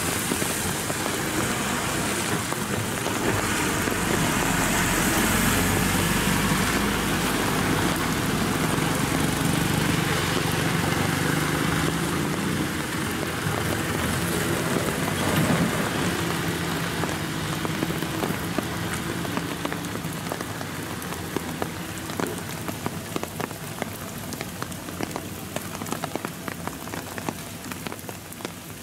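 Steady rain falling on a wet road, with the diesel engines of a bus and then a heavily loaded tractor running through the first half. The engine sound fades after about halfway as the tractor pulls away, leaving the rain and the patter of raindrops.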